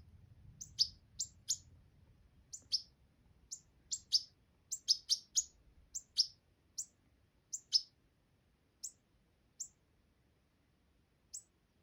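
Young goldfinch chirping: short, high chirps, often in quick pairs, coming thick at first and thinning to a few single chirps over the last few seconds.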